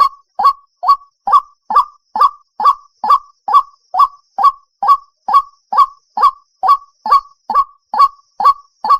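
White-breasted waterhen calling: a recorded lure call, an even series of short loud notes, a little over two a second, each note repeated the same way.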